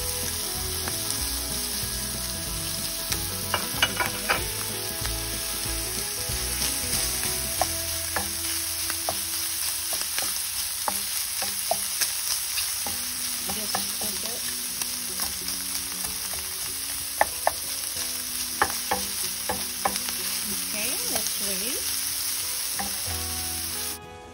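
Diced ham sizzling as it browns in a frying pan, turned with a wooden spatula that gives scattered scrapes and taps against the pan. The sizzle cuts off suddenly near the end.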